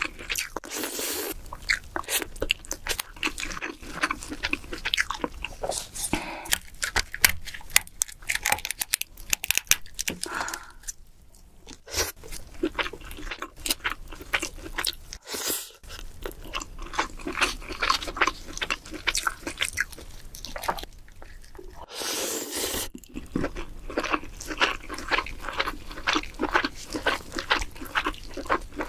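A person eating king crab up close to the microphone: continual wet chewing and biting with many sharp, irregular crunching clicks, broken by a couple of short noisy swells.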